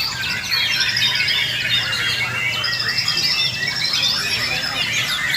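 Many white-rumped shamas (murai batu) singing at once, as at a songbird contest: a dense, continuous chorus of overlapping fast whistles, chatters and trills.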